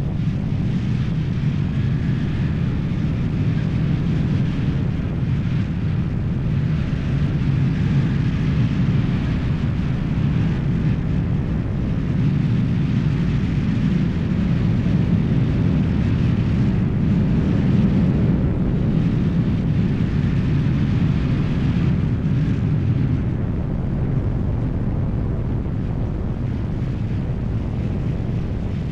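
Baler running steadily, a continuous low mechanical rumble.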